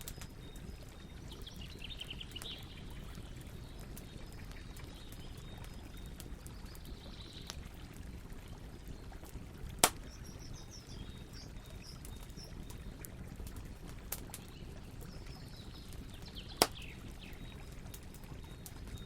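Campfire burning with a steady low rush and frequent small crackles of the wood, and two loud sharp pops, one about ten seconds in and another near the end.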